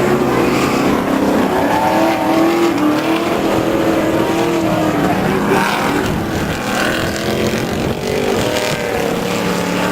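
Off-road super truck race engines running hard, their pitch rising and falling as the trucks rev and lift off.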